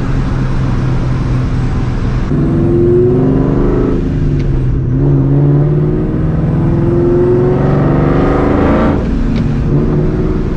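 Vortech-supercharged 4.6-litre two-valve V8 of a 2004 Ford Mustang GT with a Borla ATAK catback exhaust, accelerating through the gears. It runs steadily, then pulls up in pitch about two seconds in, breaks off at a shift near four seconds, and pulls again in a longer rise until about nine seconds, when it drops back to a steady cruise.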